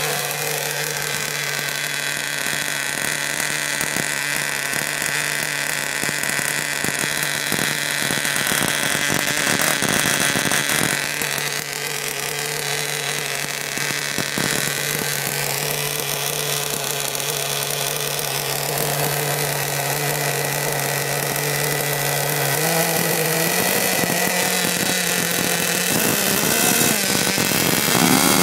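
Small nitro two-stroke engine of a modified Pro Boat Blackjack 26 RC boat running steadily with a high, buzzing tone. About three-quarters of the way through, the engine speed steps up slightly.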